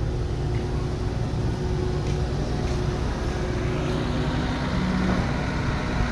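Heavy construction machinery's engine running steadily, a low rumble with faint steady whining tones above it.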